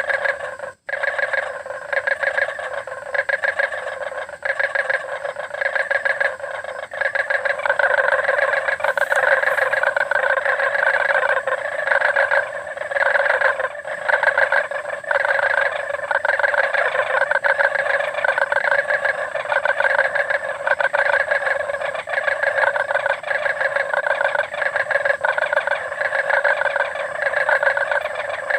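A chorus of many frogs croaking together, a dense, continuous mass of rapid pulsed calls. The sound cuts out briefly twice within the first second.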